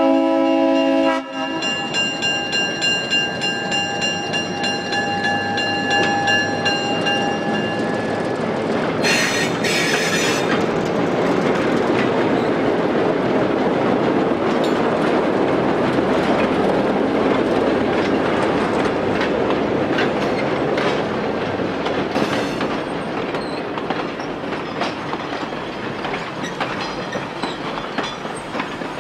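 A train whistle sounds a chord and cuts off about a second in, its higher tones fading over the next few seconds. A train then rolls along the rails with a steady rumble and wheels clicking over the rail joints, and a brief high squeal comes about nine seconds in.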